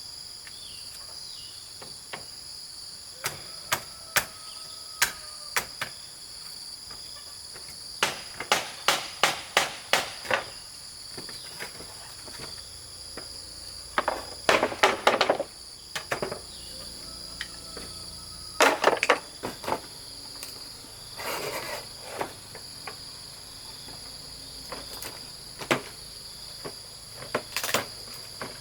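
Repeated sharp knocks of tool strikes on wood, coming in bursts, at one point about two a second and elsewhere in quick flurries, over a steady high-pitched insect chorus.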